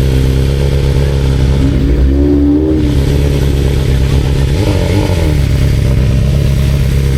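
Honda CBR650R inline-four engine running steadily at low revs, with a short rise and fall in pitch about five seconds in.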